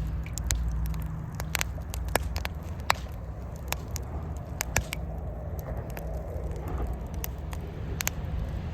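Wood fire crackling and popping in a Coleman Fire Disc fire pit, with irregular sharp snaps over a low steady rumble.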